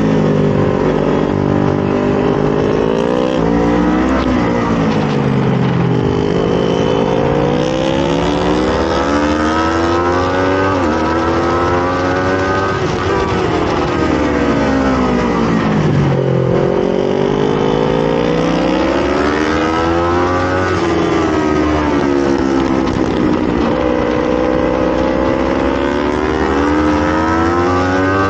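Sport motorcycle engine, heard from on board, pulling hard and easing off on a race track. Its pitch climbs and falls several times as the bike accelerates and slows, with small sudden steps along the climbs where it changes gear.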